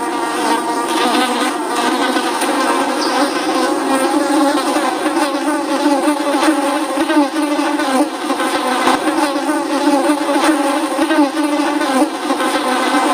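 Several flies buzzing at once, a continuous droning hum of overlapping wingbeat tones that waver up and down in pitch.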